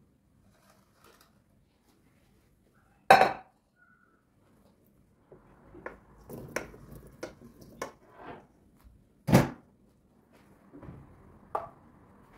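Kitchen dishes and utensils clinking and knocking: one loud clack about three seconds in, then a run of lighter clinks with a second loud clack about nine seconds in.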